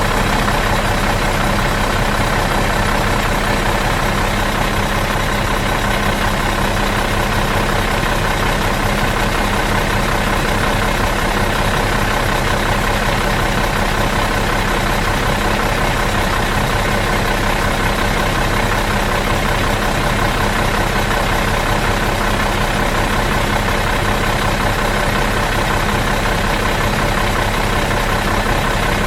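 Bus engine idling out of gear, a steady, unchanging hum.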